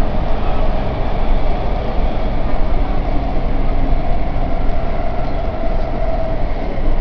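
Canada Line SkyTrain running at speed: a steady, loud rumble of wheels on rail with a constant hum from the drive, which sounds like a jet engine.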